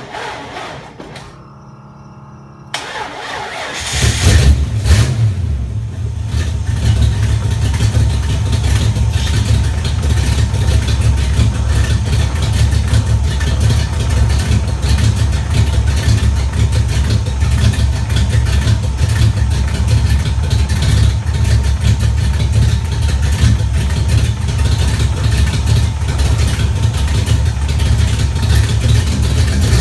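A 1994 Ford Mustang GT's 5.0 V8 is cranked and starts about three seconds in, revs briefly, then settles into a steady idle with a rapid ticking pulse, which the owner takes for an exhaust leak.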